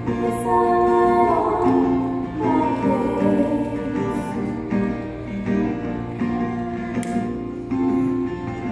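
Concert choir singing a gentle song in held, changing notes, with instrumental accompaniment underneath.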